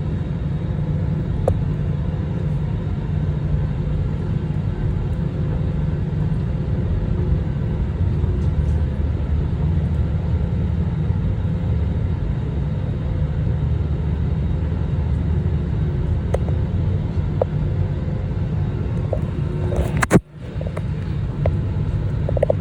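Steady low rumble of an airliner's engines and cabin noise. About twenty seconds in there is a sharp click and a brief drop almost to silence, then the rumble resumes.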